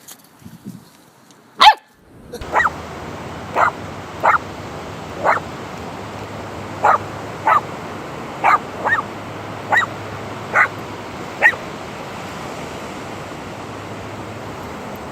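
A dog barking: about eleven short, sharp barks at irregular intervals over a steady background hiss. A single loud sharp sound comes just before them.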